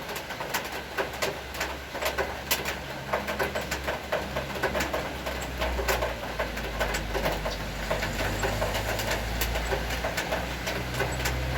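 Rain falling, with drops tapping irregularly close by as sharp ticks over a steady hiss. A low rumble swells in the middle and eases off again near the end.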